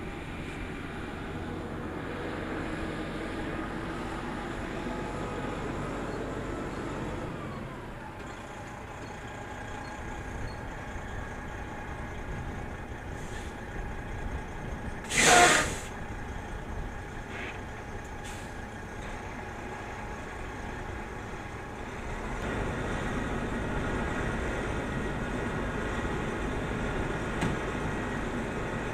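A vehicle engine running steadily, with one short, loud hiss of released air about halfway through. The engine gets louder near the end.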